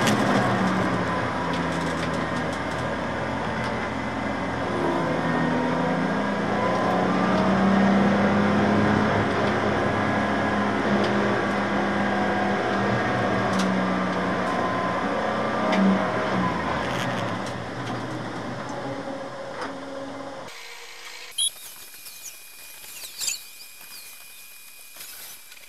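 BMW Z4 Coupe race car's engine heard from inside the stripped cabin, running steadily at pit-lane speed-limit pace and fading as the car slows to a stop. About twenty seconds in the engine sound cuts off abruptly, leaving a much quieter background with two short knocks.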